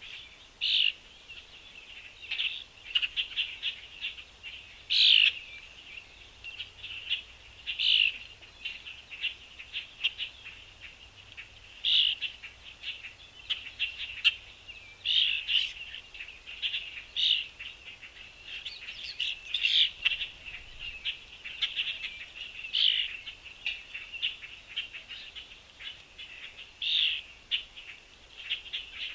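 Small songbirds chirping, a constant chatter of short high calls with louder chirps standing out every second or two.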